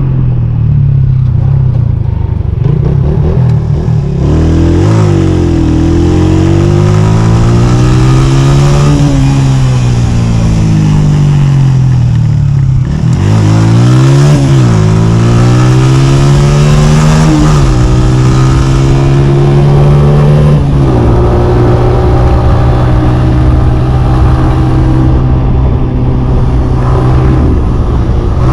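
Honda CG 125 motorcycle's single-cylinder four-stroke engine revving up and down again and again, its pitch climbing and dropping several times, then holding at a steady speed for the last several seconds.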